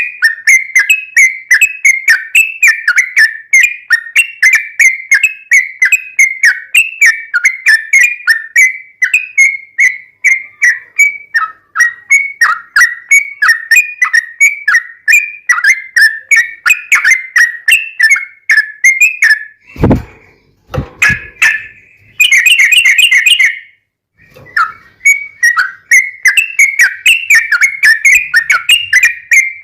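Sooty-headed bulbul (trucuk) singing a fast, unbroken run of short repeated whistled notes. About two-thirds of the way in, the run is cut by two sharp thumps and a brief harsh buzzy trill, then the whistled notes start again.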